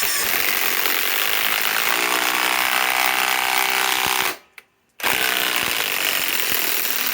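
Ryobi PSBIW25 compact impact wrench running under load, hammering as it drives a lag screw. It runs in one long burst that stops about four seconds in, then starts again a moment later for a second run.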